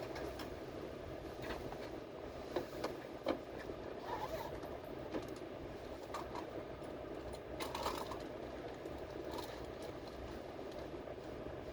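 A train running, heard from inside a carriage: a steady rumble with scattered light clicks and rattles.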